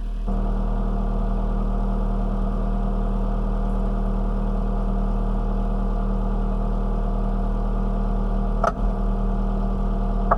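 Cat 908 compact wheel loader's diesel engine running steadily, picking up a little just after the start. A single sharp metal clank comes near the end.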